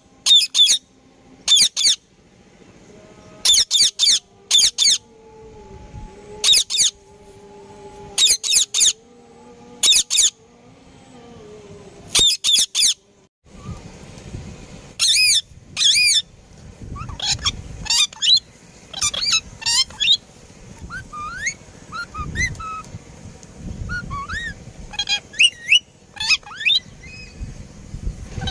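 Parrot calling: short loud calls in quick pairs or triplets every couple of seconds, then, after about halfway, a few more loud calls giving way to softer chirps and rising whistles.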